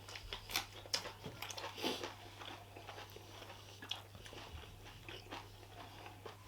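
Close-miked chewing and biting of food during a meal, with a cluster of crisp, crunchy mouth clicks in the first two seconds that then thin out to softer chewing. A low electrical hum runs underneath.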